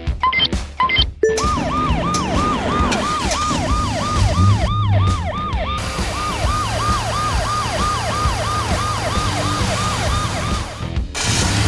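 A siren in a fast yelp, about three falling sweeps a second, over a low steady hum. It starts about a second in and stops shortly before the end.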